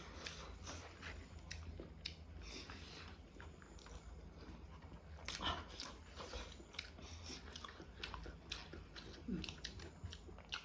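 Close-up mouth sounds of someone eating egg curry with rice: chewing and wet smacking, with scattered short clicks and a few louder bursts.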